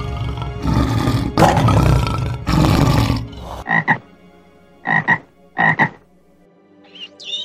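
A male lion gives three loud roaring calls in quick succession. Then a frog croaks: three short double croaks about a second apart.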